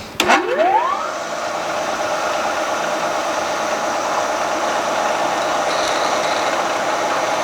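Milling machine spindle switched on with a click, winding up in pitch over about a second, then running steadily at speed as the drill bores into a hardened crankshaft counterweight.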